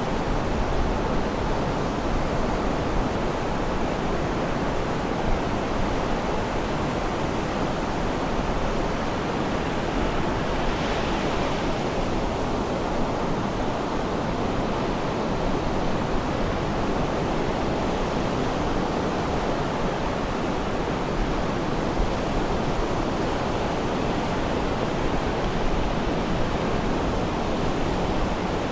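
Sea surf washing steadily, a continuous rush of water, with one wave breaking a little brighter about ten seconds in. No birdsong stands out.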